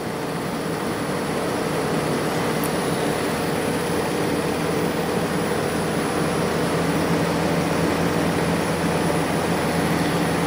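LG dual inverter window air conditioner running: brushless DC fan blowing with the inverter-driven dual rotary compressor just started, a steady whoosh with a low hum. The hum shifts slightly higher about halfway through as the compressor speeds up, and the sound grows a little louder.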